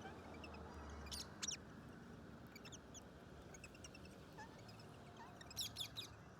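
Wild parrots calling: scattered short, high chirps, with two louder bursts of sharp calls, one about a second in and one near the end.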